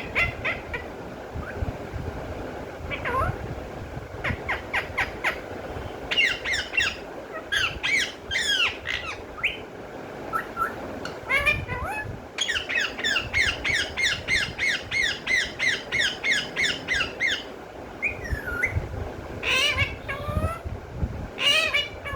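Pet parrot calling in runs of quick, repeated shrill squawks, with a long even run of about four to five calls a second in the middle.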